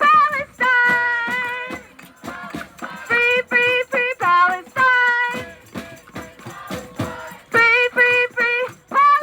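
Music with a high singing voice, sung in short held notes and phrases broken by brief gaps.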